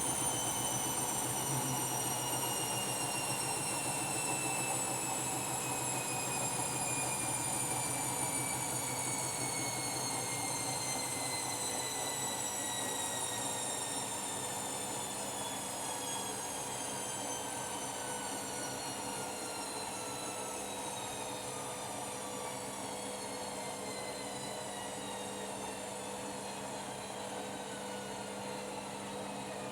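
Washing machine slowing down from a spin: the motor's whine falls slowly and steadily in pitch as the drum winds down, and the sound gradually gets quieter.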